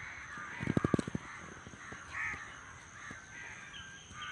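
Crows cawing repeatedly, with a short burst of low thumps about a second in. A faint steady high whine runs underneath.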